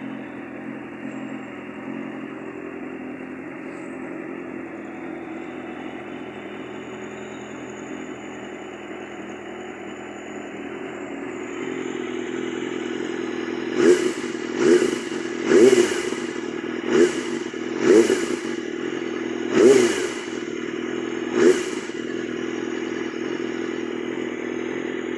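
Yamaha R6 inline-four engine running through a Termignoni aftermarket exhaust: idling steadily, then given seven short, sharp throttle blips in quick succession past the middle, before settling back to idle.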